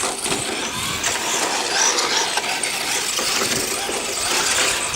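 Radio-controlled toy car driving: its electric motor and gears whirring, with a steady scratchy noise.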